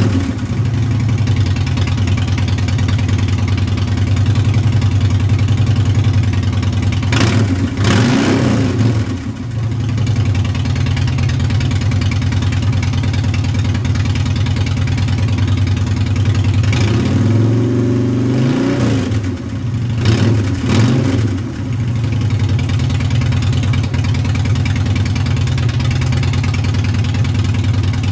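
2008 Harley-Davidson Dyna FXDL's Twin Cam V-twin idling through a Supertrapp Mean Mothers II exhaust, blipped three times: once about a third of the way in, then a longer rev and a quick one shortly after.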